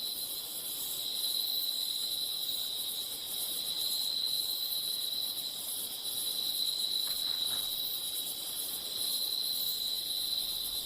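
Night insects trilling steadily in one continuous high, unbroken chorus.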